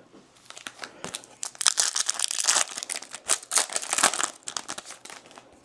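Foil wrapper of a Bowman Chrome baseball card pack crinkling and tearing as the pack is opened: a quick run of crackles lasting several seconds.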